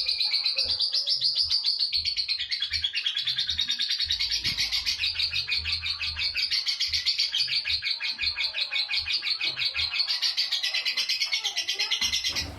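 Lovebird giving its long 'ngekek' chatter: an unbroken run of rapid, high, rattling notes repeated many times a second without a pause.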